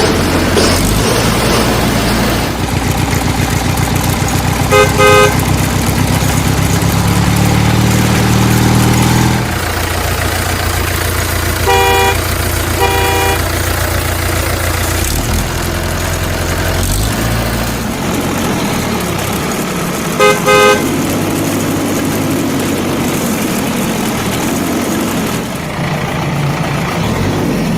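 Heavy vehicle engine sound, rising in pitch for a few seconds before falling away, with short horn honks four times.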